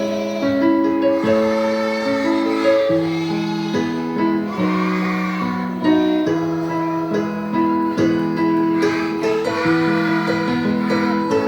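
Music: a kindergarten children's choir singing to acoustic guitar accompaniment.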